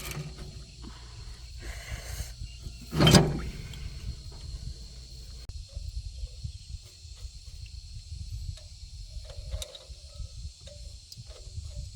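One heavy knock about three seconds in, followed by scattered lighter knocks and clatter over an uneven low rumble, with a steady high insect hum in the background.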